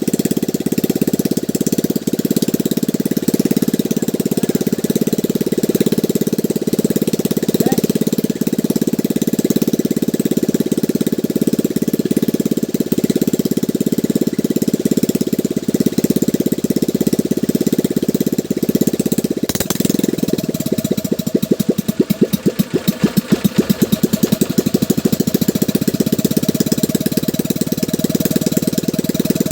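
Boat engine running steadily. About two-thirds of the way through it gives a sharp click and its speed drops, so each firing stroke can be heard as a separate pulse for a few seconds before the running evens out again.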